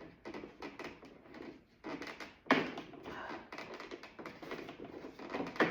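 Plastic clicks and taps as the push-in clips holding a door-panel speaker are pressed inward and the speaker is worked loose, with two sharper clicks, one about halfway through and one near the end.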